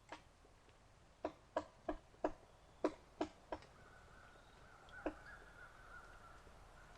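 Woodpecker pecking at wood: single sharp knocks about three a second in an uneven run, stopping after about three and a half seconds, with one more knock about five seconds in.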